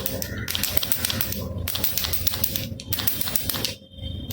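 Baby rattle shaken in quick bursts, its beads giving a dense clicking rattle. Brief pauses come about once a second, and a longer lull falls near the end.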